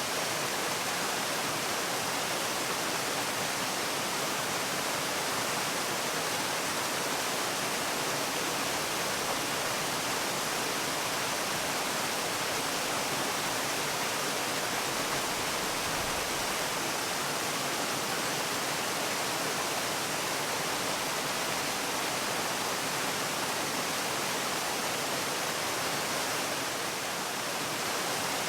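Waterfall: water falling in a steady, even rush with no variation.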